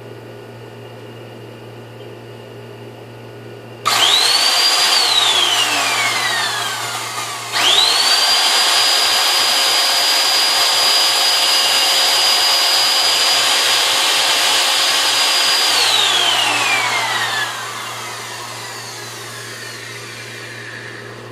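Dansat 21-litre vacuum cleaner's motor switched on with a rising whine, cut off after about a second and spinning down with a falling whine; then switched on again, running steadily for about eight seconds before it is switched off and spins down to a stop.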